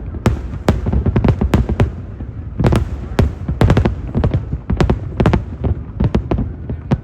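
Aerial fireworks shells bursting in a dense, irregular barrage of loud sharp bangs, several a second, with a low rumble running on between them.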